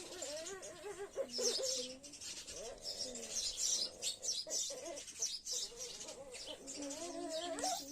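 Birds chirping in quick, short calls, mixed with lower wavering pitched calls; one call rises near the end.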